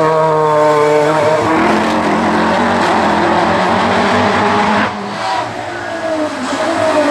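Race car engine running at high revs with a change in pitch about one and a half seconds in, as at a gear change. About five seconds in the sound suddenly drops as the throttle is lifted, then the engine's pitch rises again near the end.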